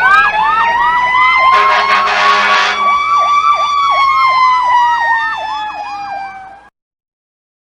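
Emergency vehicle siren, loud: a slow wail rising and then falling, layered with a fast yelp sweeping about three times a second, and a horn blast lasting about a second early on. It cuts off abruptly near the end.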